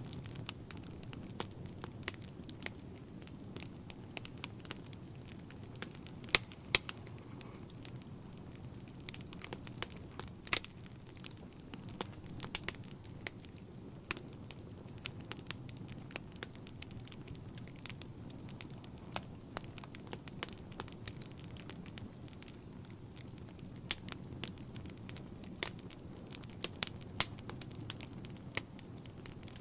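Wood fire burning in a fireplace: a steady low rush of flames with constant irregular crackling and sharp pops from the burning logs, a few pops much louder than the rest.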